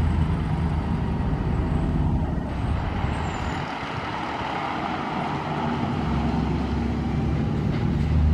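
Fire truck's diesel engine running with a low, steady drone. It grows louder about six seconds in.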